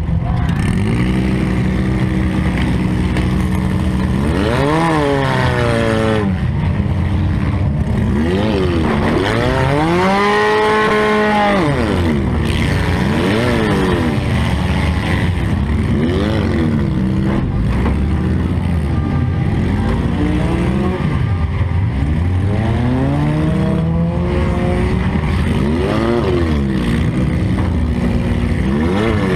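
Demolition derby car engine revving up and falling back again and again, with one higher rev held for about two seconds near the middle.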